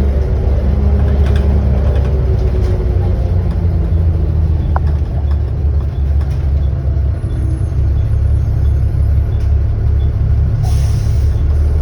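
Volvo B7TL double-decker bus heard from on board: a deep, steady engine drone with the whine known as its 'hoover', the whine falling in pitch over the first couple of seconds. A hiss of air bursts out near the end.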